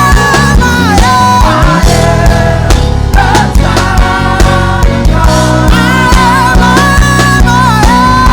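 Live worship band music with a steady drum beat, sustained bass and a melody line that slides between notes.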